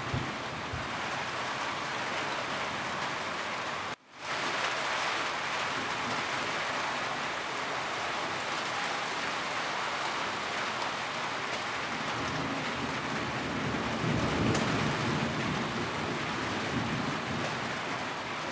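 Steady heavy rain drumming on a roof, with a low rumble of distant thunder building and fading past the middle. The sound briefly cuts out about four seconds in.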